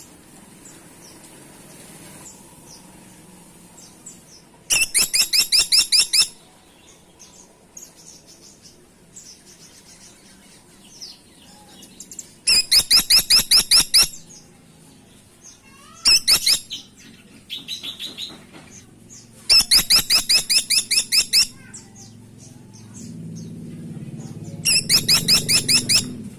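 Caladi tikotok woodpecker calling: five loud rattling series, each about a second and a half of rapid, evenly spaced sharp high notes, with softer scattered notes between them. A low rumble rises under the last series.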